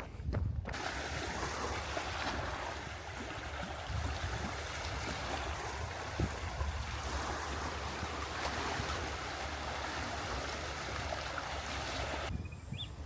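Steady rushing of water, starting and stopping abruptly.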